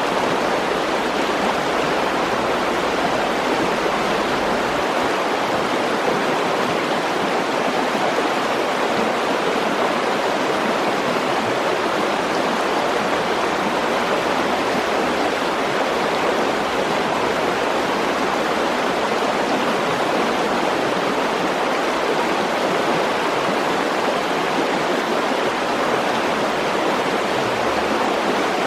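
Mountain stream rushing over rocks, a steady, even water noise.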